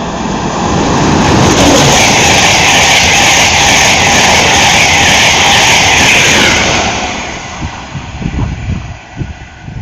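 Virgin Trains East Coast express passenger train passing through at speed: a loud, even rush of wheel and air noise that builds in about half a second, holds for several seconds and dies away about seven seconds in.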